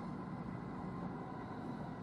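Inside an electric commuter train while it runs: a steady, low rumble with a few faint steady tones above it.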